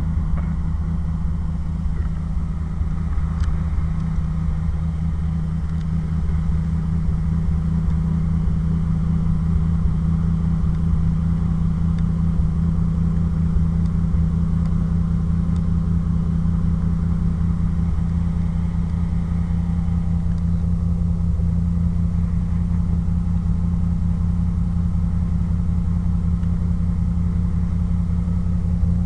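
Throttle-body-injected 350 small-block Chevrolet V8 in a 1985 Pontiac Firebird Trans Am idling steadily while warming up after a cold start, with a deep exhaust note through a catless Y-pipe and MagnaFlow muffler.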